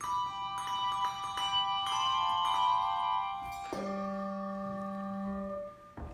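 Tuned bells played as a sound effect: a run of bell notes struck one after another, each left ringing, then a lower group of notes struck together about four seconds in, ringing for nearly two seconds before fading.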